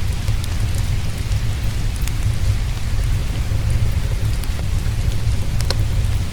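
Steady rain with a deep, constant low rumble underneath, and occasional sharp crackles from a wood fire in a fireplace.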